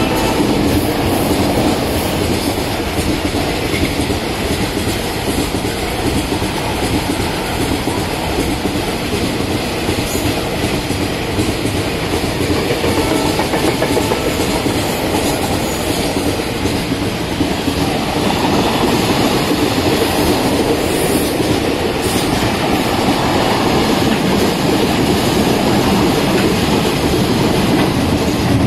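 Freight train wagons rolling past at close range: a steady, loud rumble and clatter of steel wheels on the rails.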